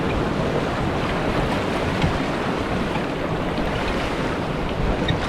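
Fast, silty glacial river water rushing in rapids around a raft, a steady noise with gusts of wind on the microphone.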